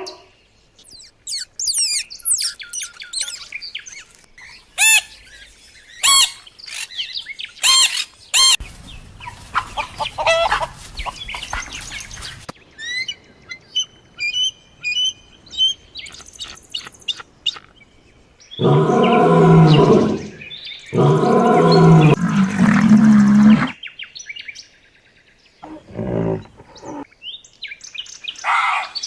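A run of animal calls: quick bird chirps and whistles first, a repeated short high call partway through, then two long, loud, low-pitched calls from a larger animal, and more short calls near the end.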